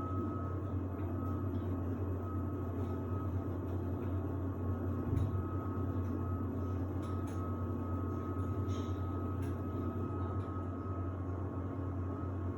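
Samsung WD70T4047CE washer-dryer running steadily with a constant low hum and a thin high whine. There is a soft thump about five seconds in, with a few faint ticks.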